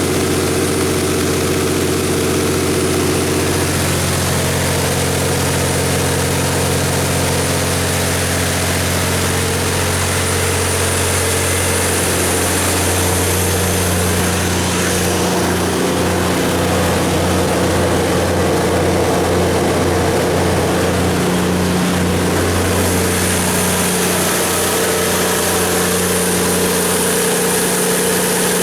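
Cummins KTA19-G4 inline six-cylinder turbodiesel of a 500 kW generator set running steadily, with a thin high whine over the engine note. Its tone shifts slightly about four seconds in and again about twelve seconds in.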